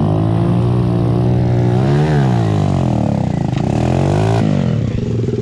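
Pit bike engine revving under throttle, climbing in pitch to a peak about two seconds in and falling back, then dropping to a lower, slower note near the end as the throttle comes off.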